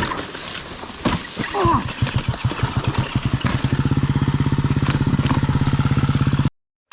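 Motorcycle engine running: after a couple of seconds of rough noise and knocks, its firing pulses speed up and settle into a fast, steady beat, then stop abruptly near the end.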